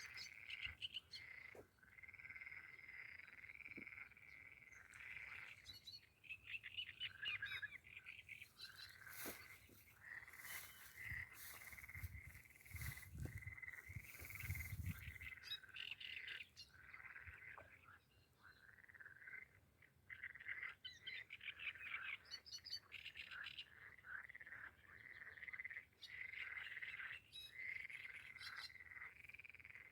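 Chorus of many frogs calling at once, overlapping rapid trilling pulses going on continuously and fairly faint. About nine to fifteen seconds in, a rushing hiss with a low rumble, like wind on the microphone, rises over it.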